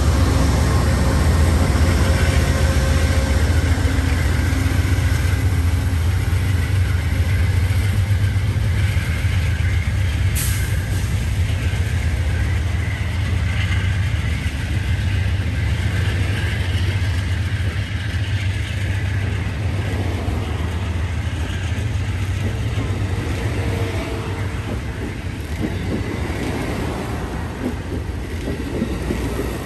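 Amtrak passenger train going by close at hand. The low rumble of its GE P42DC diesel locomotive fades as the locomotive pulls away, and the bilevel Superliner cars keep rolling past on the rails. There is one brief sharp click about ten seconds in.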